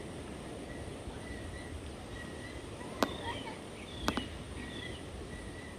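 Outdoor ambience: a steady hiss with a faint high chirp repeating about twice a second, a few short bird-like chirps, and two sharp clicks about three and four seconds in.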